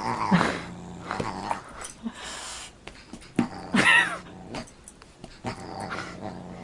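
A pet animal's short cries and growls, several times over, the loudest about four seconds in.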